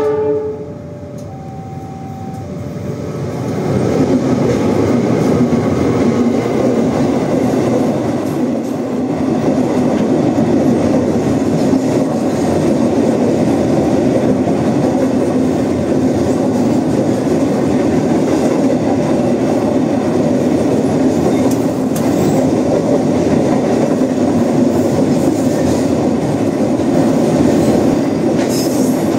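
A train horn ends just after the start, with a short further horn note about two seconds in. Then a train passes close by, getting louder about four seconds in: a steady heavy rumble and clatter of wheels over the rails.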